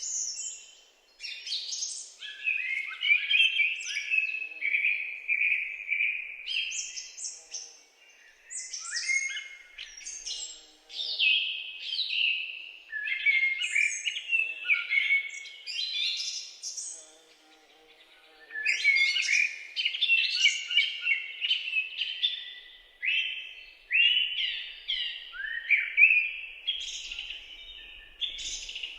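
Several songbirds singing and chirping over one another in a woodland, with quick, rapid-fire chirps and trills and a couple of brief lulls.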